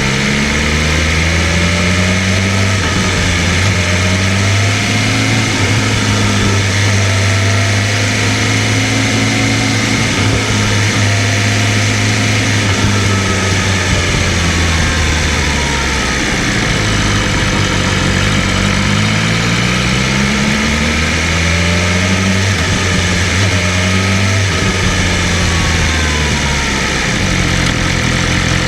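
BMW M1000RR's inline-four engine running under way, its revs climbing in steps through upshifts, dropping back about halfway through, then climbing in steps again, over a steady rushing noise.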